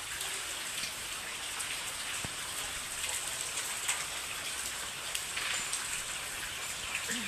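Heavy rain falling steadily, a constant hiss with the patter of many individual drops striking surfaces.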